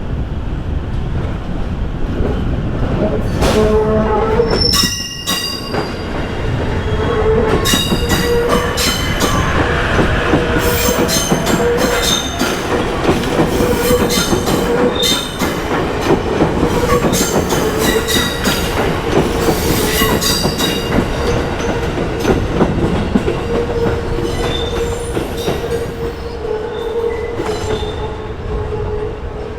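E257 series limited express train pulling out and crossing over the points, its wheels squealing and clacking through the turnout with a steady tone underneath. A short horn-like tone sounds about four seconds in.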